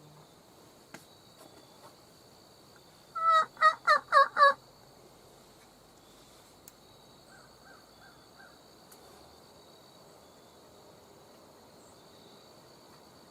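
Turkey yelps: a loud run of five evenly spaced yelps about three seconds in, then a fainter run of four a few seconds later.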